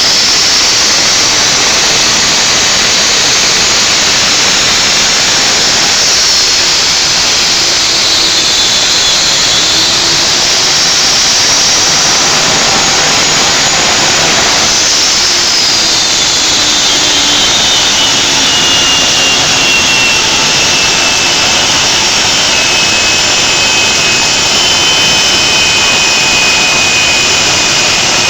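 Drag race car's engine running loud and continuously, with a high whine that rises and falls several times over the noise of the engine.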